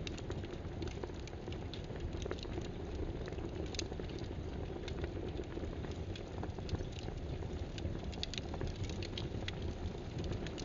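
Computer keyboard typing: irregular key clicks, bunching into a quicker run near the end, over a steady rushing background noise.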